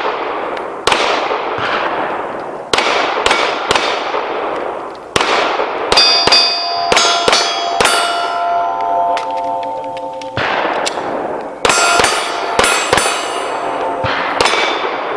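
A string of pistol shots fired at steel targets, about a dozen or more at uneven spacing, each echoing, with the struck steel plates clanging and ringing on after the hits in the middle of the string and again near the end.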